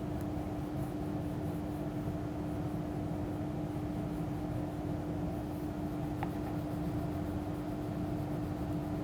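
Steady background hum with one constant tone, and a single faint click about six seconds in.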